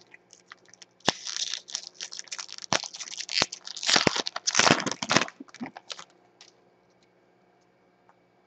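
Plastic trading-card pack wrapper being torn open and crinkled by hand, a run of crackling for about five seconds.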